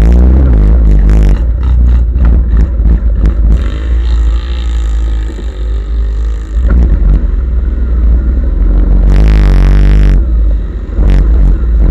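Off-road vehicle engines revving up and down in mud, with a heavy low rumble under them and scattered clatter. The strongest rev surges about nine seconds in.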